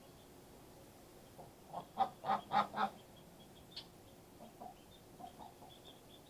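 Mother duck quacking: a quick run of about five loud quacks about two seconds in, then a few softer calls, with faint high peeping of ducklings.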